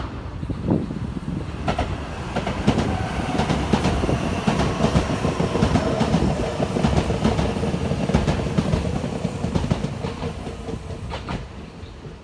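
A train passing, its wheels clattering over rail joints, with a steady whine running through. It grows louder to a peak about midway and fades toward the end.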